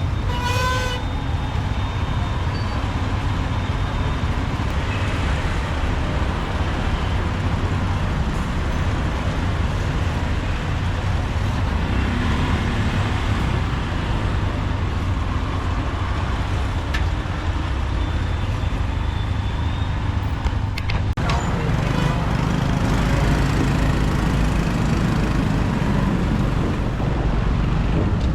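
Motorbike riding in city traffic: a steady low rumble of engine and road noise, with a short horn toot about half a second in. The rumble gets a little louder after a brief dip about twenty seconds in.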